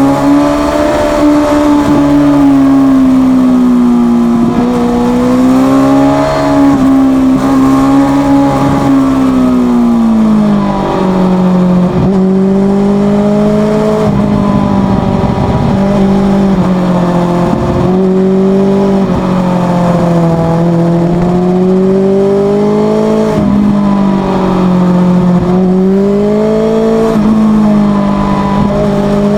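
Suzuki GSX650F inline-four engine running through an open Leo Vince exhaust with the dB killer removed, loud and steady, its pitch rising and falling as the throttle is worked; about ten seconds in the revs drop to a lower band and keep swinging up and down from there.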